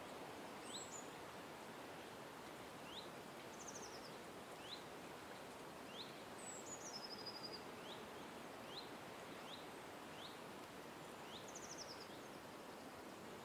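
Wild birds calling over a steady background hum: one bird repeats a short upward chirp about once a second, while a few higher, fast trilled phrases come in now and then.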